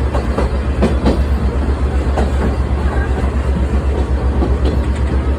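Open-car sightseeing (torokko) train running on the rails: a steady heavy rumble with scattered wheel clicks and knocks.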